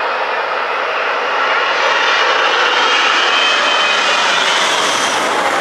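Four-engined Airbus A380 jet airliner landing, its turbofan engines making a loud, steady rushing noise that swells slightly toward the middle.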